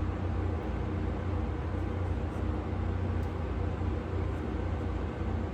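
Steady low background hum with an even hiss over it, unchanging throughout: a running machine or fan in the shop.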